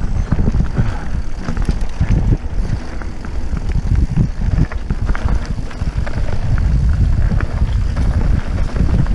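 Mountain bike riding fast down rocky singletrack: tyres rumbling over rock with a constant run of knocks and rattles from the bike, and wind buffeting the microphone.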